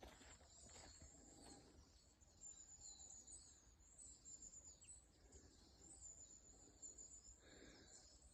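Near silence: faint woodland ambience with faint high-pitched chirping.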